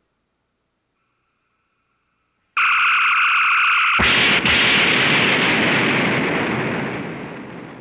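Star Trek original series sound effect: after a faint steady tone, a loud electronic tone sounds for about a second and a half, then a sudden explosion bursts in and slowly fades away.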